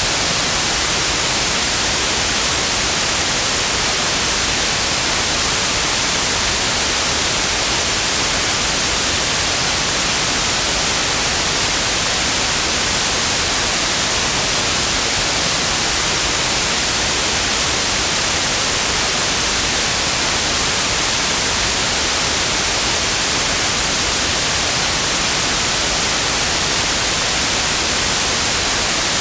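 Steady white noise: an even, unchanging hiss across all pitches, brightest in the highs, with no events in it.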